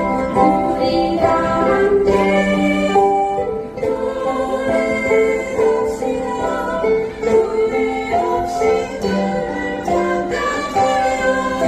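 A ukulele ensemble strumming while the group sings a song together in unison.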